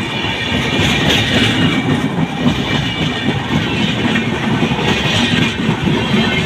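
Passenger coaches of an Indian Railways express rushing past at full speed: a loud, continuous rumble of steel wheels on rail, broken by many rapid, irregular knocks over the track.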